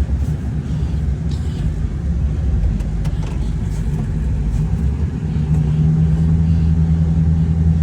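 Duramax diesel pickup engine pulling under load through snow drifts in four-wheel drive. A steady low engine note comes up and holds from about five and a half seconds in.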